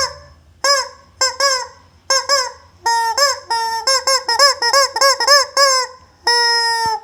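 Squeeze-toy rubber chicken being squeezed over and over: a string of short pitched squeals that each arch up and down in pitch and come faster in the middle, then one longer held squeal near the end.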